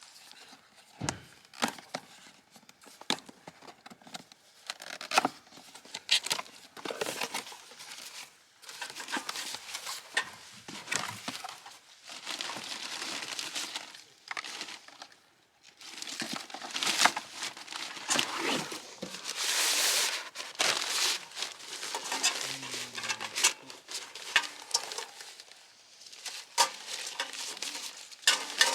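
Wrapping material being crinkled and handled, with many scattered clicks and knocks; food prep for cooking.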